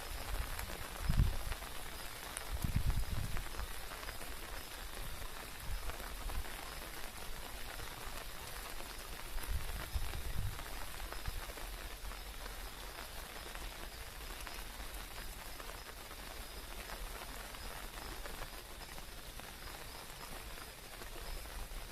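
Steady rain falling and pattering. A few low thumps in the first half, around one second in, about three seconds in and about ten seconds in.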